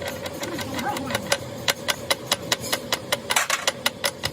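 A machine running with a steady hum and a rapid, even ticking of about six clicks a second, growing denser about halfway through.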